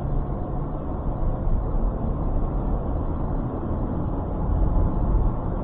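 Steady low rumble of engine and road noise inside a moving truck's cab.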